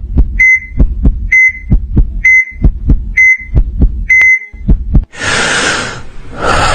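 Heartbeat thumps with a short high electronic beep about once a second, like a heart-rate monitor, five times over. About five seconds in, a burst of rushing noise takes over.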